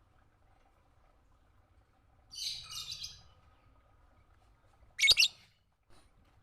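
Lovebird chirping: a quick run of shrill chirps about two seconds in, then a louder, very short double chirp near the end.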